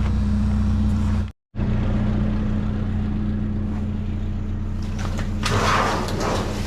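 A vehicle engine idling with a steady low hum, cut by a brief dropout about a second and a half in. From about two thirds of the way through, a rustling, scraping handling noise rises over it.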